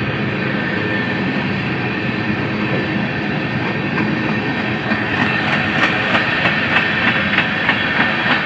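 A train running on the rails with a steady rumble. About halfway through, the wheels start a rhythmic clickety-clack over the rail joints, roughly three clicks a second.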